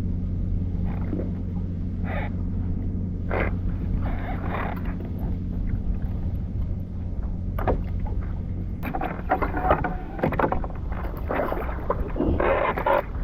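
Irregular splashing and knocking of water and gear around a fishing kayak while a big hooked fish is fought close to the boat. The splashes come thicker in the second half, over a steady low hum.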